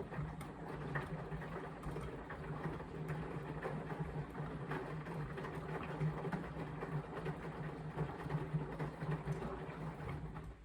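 Indesit washing machine drum turning a full load on an Express wash: a steady motor hum under a dense rustling clatter. It starts abruptly and cuts off about ten seconds later, one tumble stroke of the wash phase.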